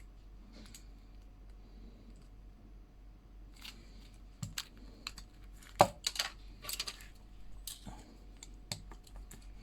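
Scattered clicks and taps of small hard objects being handled, with a cluster in the middle and one sharper knock about six seconds in.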